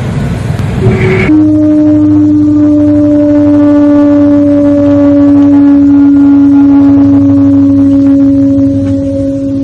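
Humpback whale song: after about a second of noisier rumbling, one long, low, steady moan with overtones begins and holds, sinking slightly in pitch.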